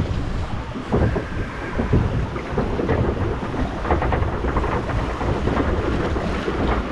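Log flume boat running through its water channel: splashing water over a low rumble of wind buffeting the microphone.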